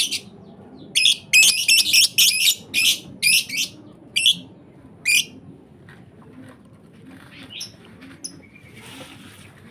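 Lovebird chicks calling: a dense run of shrill, raspy chirps from about a second in to about five seconds in, then only faint scattered chirps and a soft rustle.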